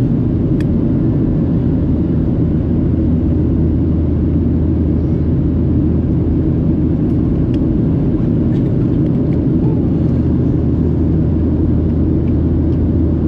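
Boeing 737-700 cabin noise heard from a window seat during the climb after takeoff: the CFM56 turbofans and the airflow make a steady, loud, low roar with a constant hum underneath.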